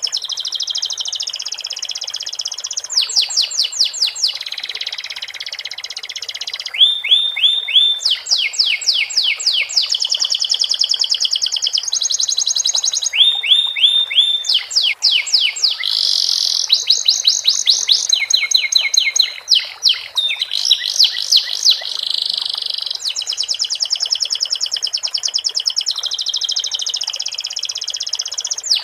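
Domestic canary singing a long continuous song of fast trills: runs of rapidly repeated sweeping notes that switch to a new phrase every second or two, with sikatan londo (flycatcher) phrases learned into its song.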